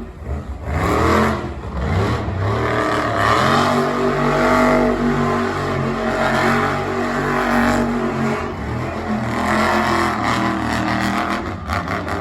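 Monster truck engine revving hard, its pitch climbing and held high for several seconds, easing off briefly, then climbing again before dropping away near the end.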